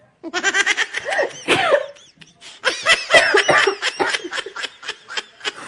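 A person laughing in quick, repeated bursts, with short breaks between runs of laughter.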